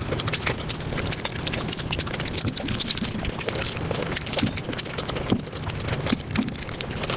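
Close-miked mukbang eating sounds sped up to five times speed: chewing and mouth smacks run together into a dense, rapid crackle of clicks.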